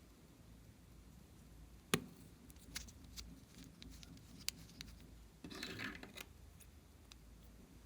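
Small handling sounds of slime being worked with makeup: scattered sharp clicks, the loudest about two seconds in, then a brief scraping, crackling burst about five and a half seconds in.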